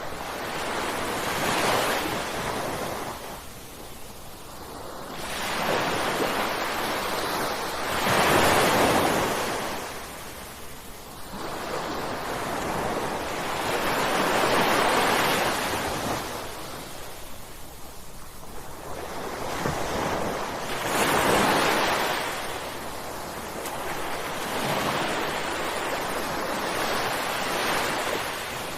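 Ocean waves breaking and washing onto the shore in a steady rush that swells and eases with each wave, about every six seconds.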